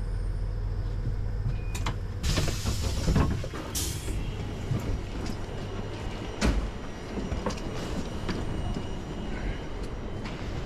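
Polish Intercity passenger train at a station platform: a steady low hum, then a burst of hissing noise about two seconds in, followed by scattered knocks and clunks.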